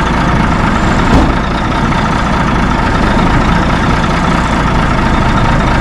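Heavy truck engine idling steadily, with a single short thump about a second in.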